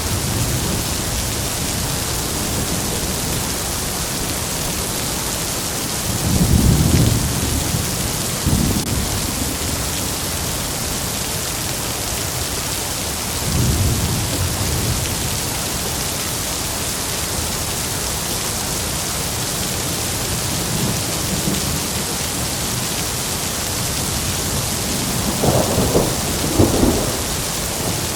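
Heavy rain hissing steadily while thunder rolls several times, with low rumbles and sharper, closer cracks near the end.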